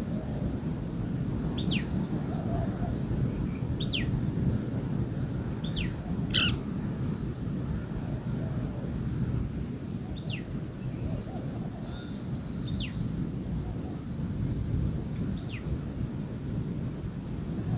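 A bird calling with a short falling chirp every two to three seconds, over a steady low rumble.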